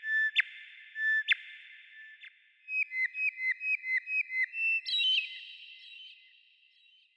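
Songbird whistling clear notes: three separate notes, each ending in a sharp downward flick, then a quick run of about eight short notes a little after two seconds in, then a higher trill that fades with an echoing tail.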